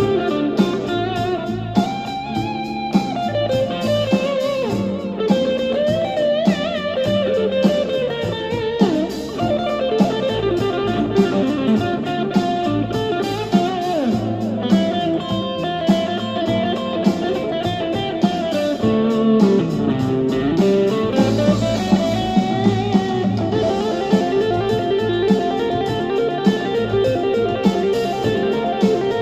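Electric guitar soloing in minor-pentatonic blues lines over a D minor blues backing track, with bent and sliding notes over a steady beat.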